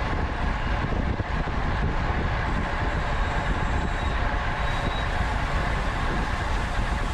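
Wind rushing over the camera microphone of a road bike at racing speed, a steady rumbling noise, with a faint high thin tone coming and going in the middle.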